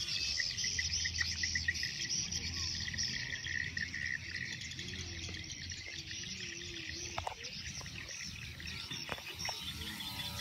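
Insects chirping steadily in a fast pulsing high trill, with scattered bird calls. A faint engine tone wavers in pitch midway, the distant sound of the aerobatic plane.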